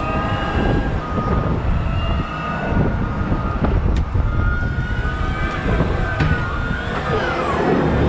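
Cat 972M XE wheel loader working: a heavy diesel rumble with drivetrain and hydraulic whines that shift in pitch, one falling away near the end.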